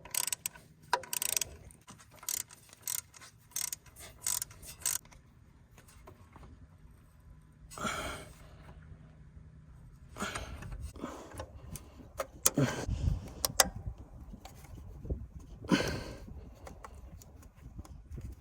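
Hand work with tools and metal parts: a run of sharp clicks and clinks in the first few seconds, then a few rustling scrapes and dull knocks.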